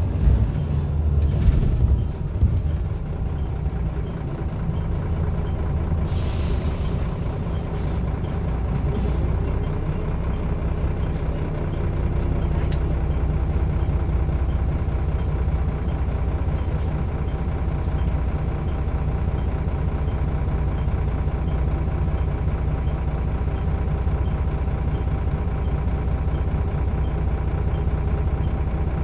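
Scania L94UB single-deck bus running, its engine a steady low drone, with a short burst of air brake hiss about six seconds in.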